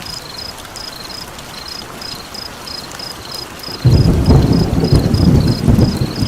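A rolling rumble of thunder breaks in suddenly about four seconds in and is the loudest sound, over a steady hiss of rain. Throughout, a high, regular chirping repeats about three times a second, with faint crackles of a fire.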